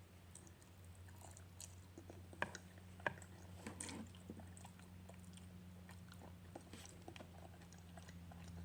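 Faint chewing and wet mouth clicks of a person eating spicy instant noodles, with a couple of sharper clicks about two and a half and three seconds in. A steady low hum sits underneath.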